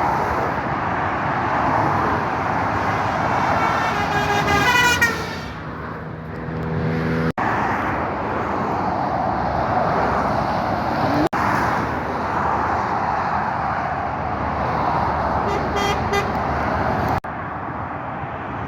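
Road traffic rushing past steadily, with a horn sounding for a few seconds about four seconds in, its pitch falling as the vehicle goes by.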